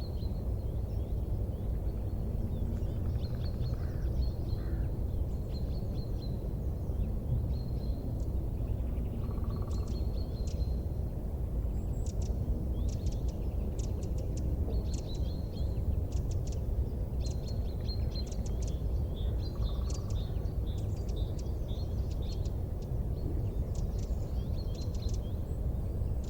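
Wood fire burning: a steady low rumble with irregular clusters of sharp crackles and pops, and brief high chirps.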